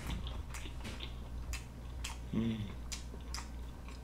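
A person chewing a mouthful of sushi close to the microphone, with wet mouth clicks and smacks coming about every half second. A short hummed "mm" comes about two and a half seconds in, over a steady low hum.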